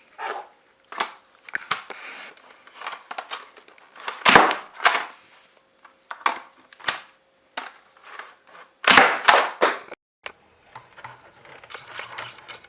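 Irregular sharp clicks and clacks of hard plastic toy parts being handled, loudest in two clusters about four seconds in and about nine seconds in, over a faint steady hum.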